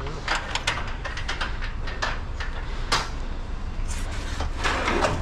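A few scattered sharp knocks and clatters over a steady low rumble, with a denser rattling patch near the end.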